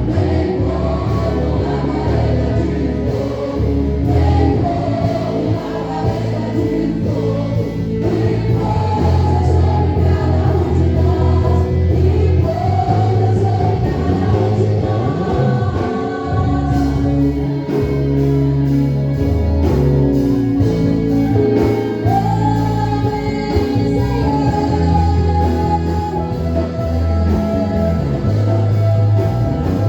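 Gospel praise music: a group of voices singing a worship song over a steady instrumental accompaniment with a sustained bass.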